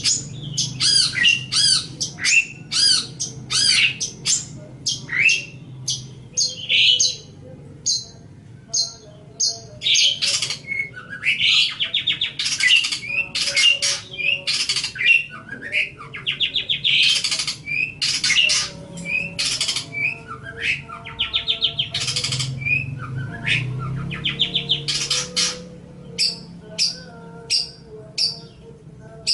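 Long-tailed shrike (cendet) singing: a fast string of short, sharp chirps and whistles, broken in the middle stretch by longer harsh, scratchy chattering phrases.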